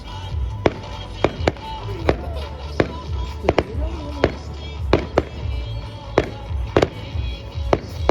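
Fireworks going off in quick, irregular bangs, a dozen or more, over music with a steady bass line.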